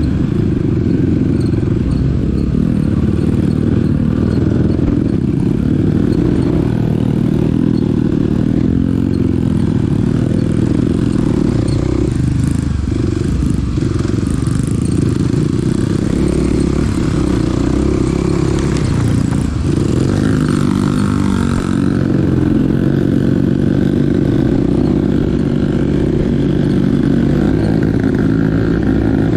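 Small dirt bike's engine running under way, its pitch rising and falling with the throttle.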